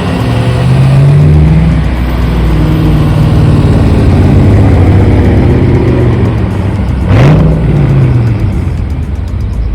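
Car engine revving: the pitch climbs and falls, holds at a steady rev for a few seconds, then gives one quick sharp blip about seven seconds in.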